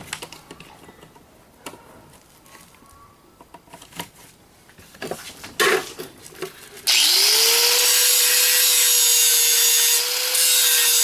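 A few handling knocks and clicks, then about seven seconds in an electric grinder spins up and grinds steadily against metal, dipping briefly near the end. This is a spark test to check whether the part is stainless steel.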